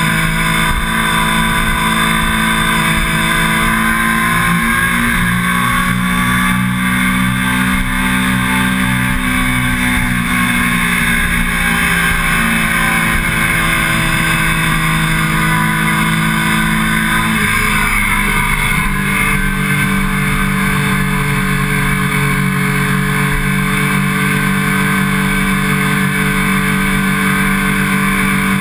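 2009 Triumph Daytona 675's inline-three engine running hard at track speed, close up from the fuel tank, over a steady rush of wind. The engine pitch rises and falls slowly through the corners and changes abruptly about two-thirds of the way through.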